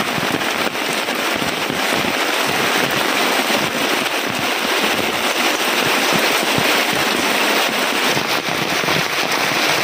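Heavy rain pouring down steadily, a dense crackling patter of drops hitting a surface.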